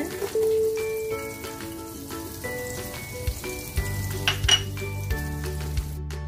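Chopped onion sizzling as it fries in melted butter in a hot pan, with a couple of clinks about four seconds in. The sizzle cuts off near the end. Light instrumental background music plays throughout.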